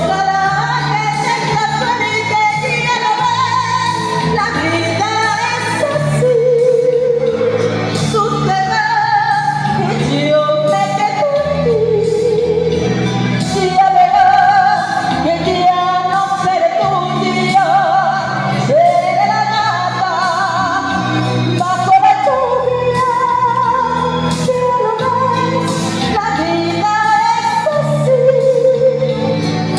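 A song: a woman singing a melody over band accompaniment with a stepping bass line and drums.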